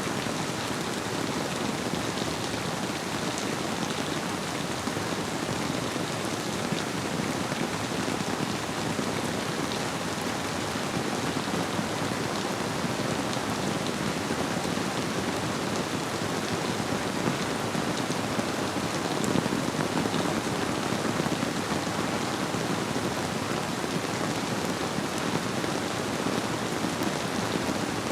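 Steady rain falling: an even hiss with scattered individual drop ticks, swelling slightly about two-thirds of the way through.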